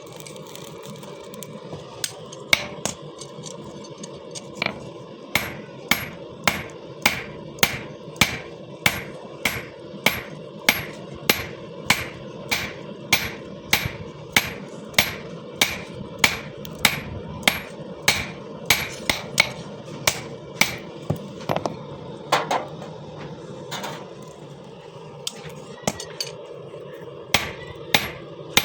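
Hand hammer blows on steel, about two evenly spaced strikes a second, each with a short metallic ring, pausing near the end before a few more blows. A steady hum runs underneath.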